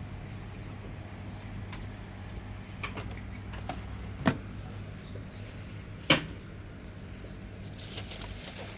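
A steady low hum with a handful of sharp, isolated clicks or taps, the loudest two about four and six seconds in.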